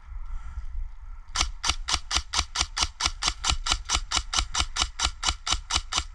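Airsoft gun firing a steady string of sharp shots, about five a second, starting about a second in and going on for close to five seconds.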